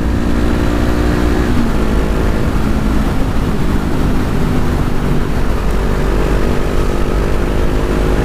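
Honda CB 500F parallel-twin engine running hard under throttle through a Jeskap aftermarket exhaust, with the catalytic converter still fitted.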